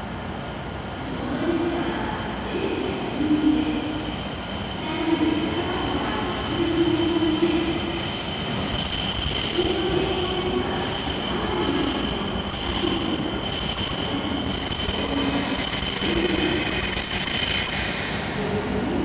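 E7-series Shinkansen trainset pulling slowly into the station and braking, its running noise growing louder from about eight seconds in as it nears. A steady high-pitched whine runs through it and cuts off about a second before the end.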